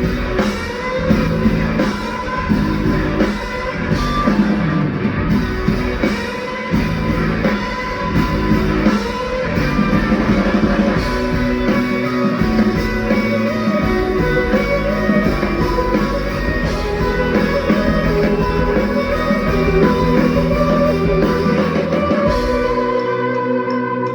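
Live rock band playing an instrumental break: guitar over drums and bass, with sliding guitar notes in the second half. The drums and bass drop out near the end, leaving held chords.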